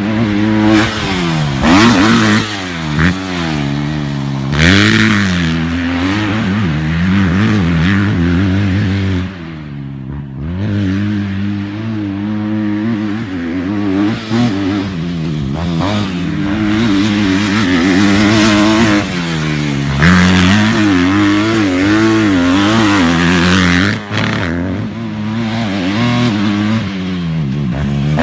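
Motocross dirt bike engines revving, their pitch rising and falling over and over as the throttle is opened and closed, with a brief lull about a third of the way in.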